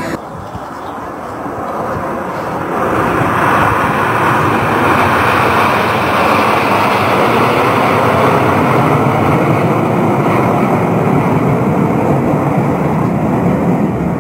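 Aircraft flying past at an airshow: a loud, steady rush of engine noise that builds over the first few seconds and then holds.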